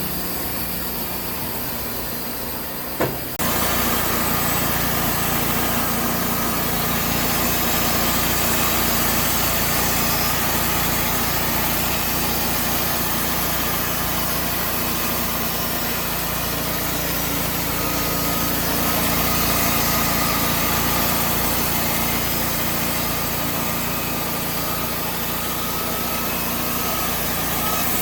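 Engine-driven portable band sawmill running steadily; after a click about three seconds in the sound jumps to a louder, rougher steady note as the blade goes into the cut and keeps sawing.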